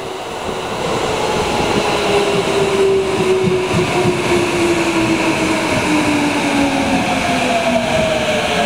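Electric commuter train running into an underground station platform, a steady rumble under a motor whine whose pitch falls as the train slows to stop.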